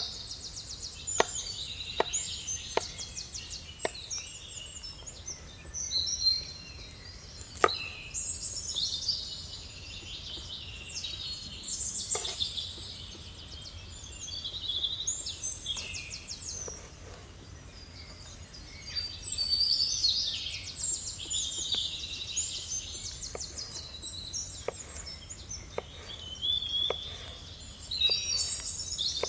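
Wild songbirds singing, with many overlapping chirps and fast trills. Scattered sharp taps or knocks stand out over the birdsong, the loudest about eight seconds in.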